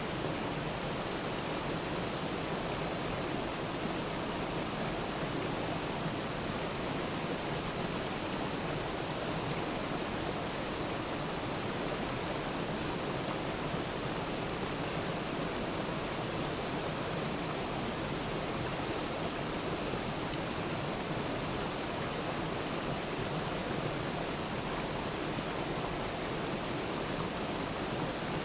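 Waterfall: steady rushing of falling water, an even noise that does not change.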